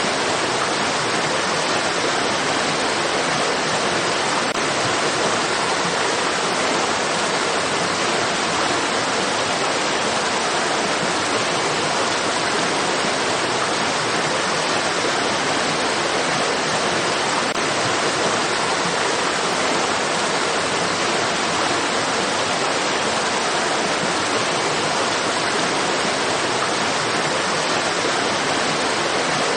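Stream water rushing in a steady, even hiss with no changes or breaks.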